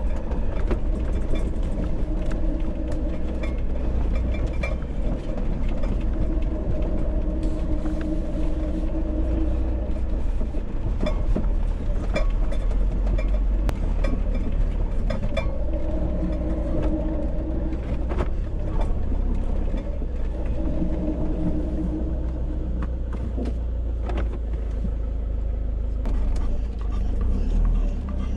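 Camper van driving: steady low engine and road rumble with many small clicks and rattles throughout.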